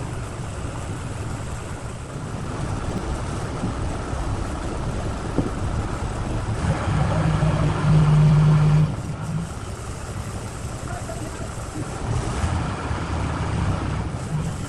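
A heavy engine running with a low steady drone. It works harder and louder for about two seconds from around seven seconds in, then drops back.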